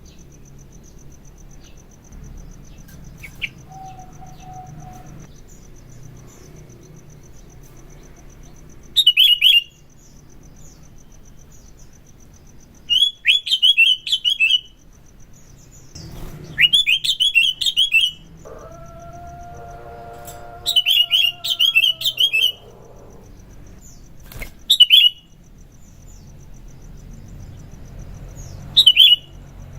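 Sooty-headed bulbul (kutilang) singing in loud, short bursts of rapid chattering notes, six bursts with pauses between them. Under it runs a faint, steady high pulsing buzz.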